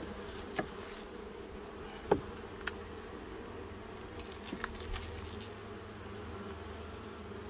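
Honeybees from an open hive buzzing in a steady hum, with a few light clicks and knocks; the sharpest comes about two seconds in.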